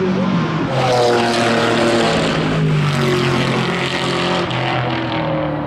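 Chevrolet Camaro GT4.R race car's V8 engine running hard, its pitch falling slowly and steadily over several seconds.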